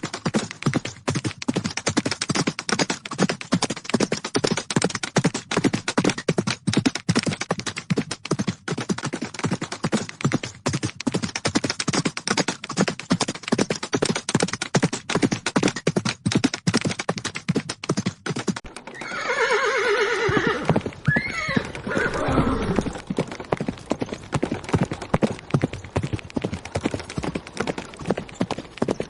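Horses galloping, a rapid run of hoofbeats. About two-thirds of the way through, a horse whinnies for a few seconds while the hoofbeats carry on.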